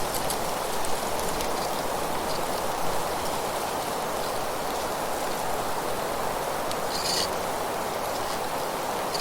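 Wind rustling through foliage as a steady, even hiss, with a brief high chirp about seven seconds in.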